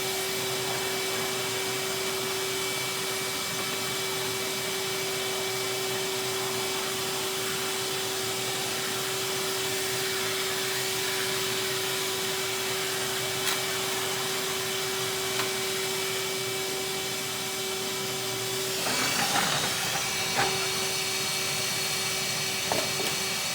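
Vacuum cleaner running steadily with a constant hum. There are a few light knocks, and a short burst of scraping and clatter about 19 seconds in.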